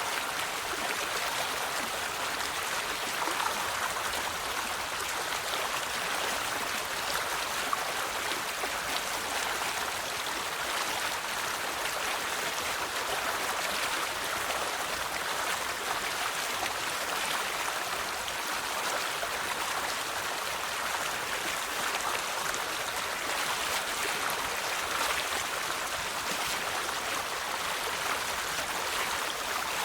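River water flowing steadily over stones, an even splashing and babbling rush with no breaks.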